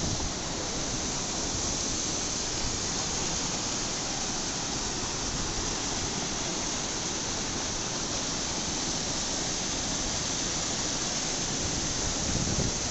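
Water spilling over a low weir into churning white-water rapids, rushing steadily.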